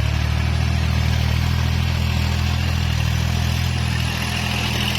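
Kubota tractor's diesel engine running steadily at an even pitch.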